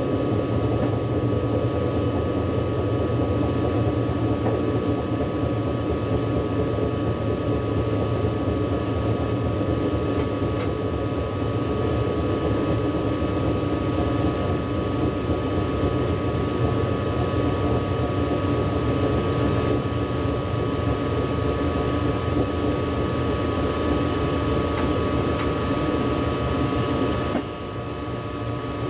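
Running noise inside the driver's cab of a German ICE high-speed train: a steady rumble and ventilation hum with a constant high whine over it. The level drops a little near the end.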